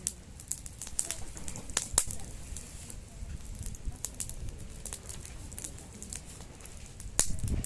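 Wood campfire crackling: irregular sharp pops and snaps from the burning wood over a low steady rumble, with a louder low rush near the end.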